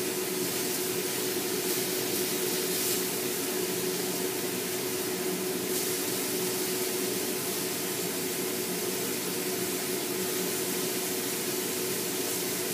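Beef-wrapped enoki mushroom rolls sizzling in oil in a frying pan, a steady hiss, with a steady hum underneath.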